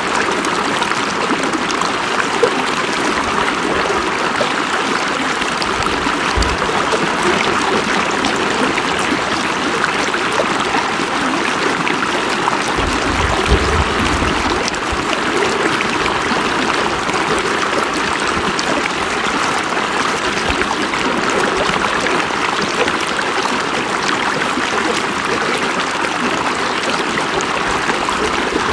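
River water flowing and rushing over rocks: a steady, even wash of moving water.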